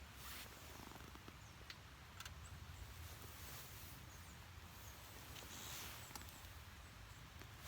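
Near silence: a faint low rumble with a few scattered small clicks.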